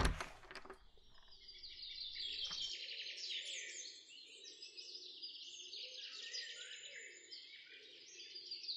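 Birds chirping and twittering in a dense, faint chorus, with a faint low hum of background noise beneath. A short sharp click sounds right at the start.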